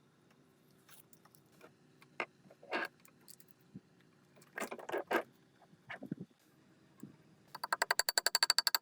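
Scattered clinks and scrapes of tools and parts being handled, then near the end about a second of fast, even ratcheting clicks, roughly fifteen a second.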